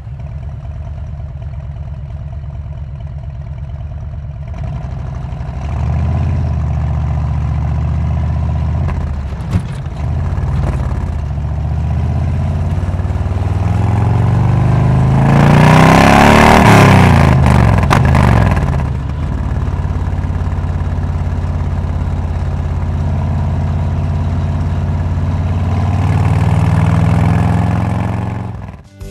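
Harley-Davidson Road King's V-twin engine running through a Cobra exhaust, idling with a low, uneven rumble, then revved up hard about halfway through and dropping back to idle, with a smaller rev near the end.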